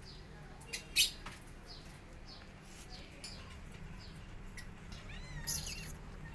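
Small bird chirping over and over in short high falling notes, about twice a second. A sharp click comes about a second in, and a kitten gives a short high mew about five and a half seconds in.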